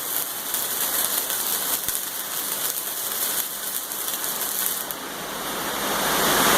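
Arc welding: the arc's irregular crackling hiss as a bead is run, getting louder about five seconds in.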